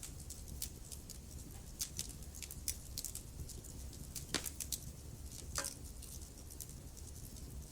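Wood fire crackling in a fireplace: irregular sharp pops and snaps from the burning logs, the loudest about four and a half seconds in, over a steady low rumble of the flames.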